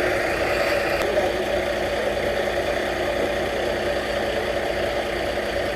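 A large vehicle's engine idling steadily.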